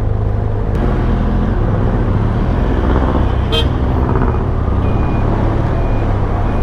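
Benelli TRK 502X's parallel-twin engine running steadily under way in city traffic. A brief sharp beep comes about halfway through, and a faint high beep repeats about once a second in the second half.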